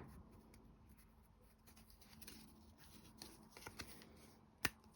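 Faint handling of small wooden clock-kit pieces: scattered light taps and rustling, with one sharp click near the end.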